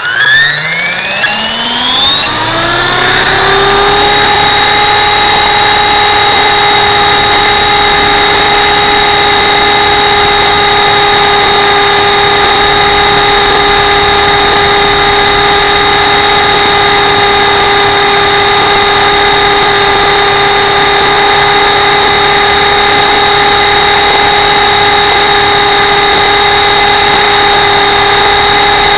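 RC camera helicopter's motor and rotor spooling up in a rising whine over the first few seconds, then holding a loud, steady, high-pitched whine.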